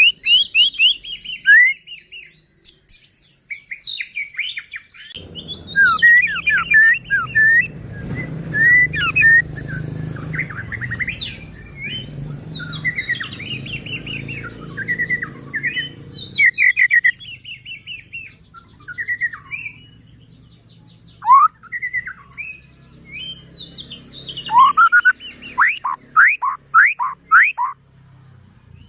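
White-rumped shama singing a varied song of whistles and quick rising and falling notes, ending in a run of fast repeated sweeping notes. A low hum sits under the song from about five seconds in until about sixteen seconds.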